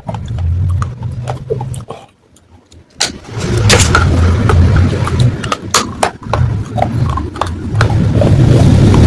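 Close-miked crunching and chewing of baked clay matka pieces: a dense low rumble broken by many sharp cracks. About two seconds in it stops for roughly a second, then starts again.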